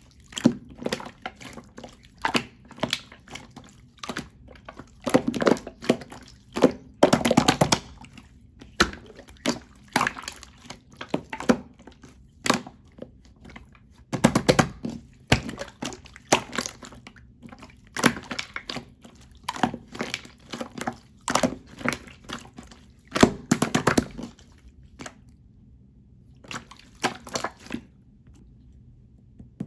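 Clear slime being squeezed and pressed by hand, making irregular wet clicks and pops, with bunches of louder squelches; it turns sparse for the last few seconds.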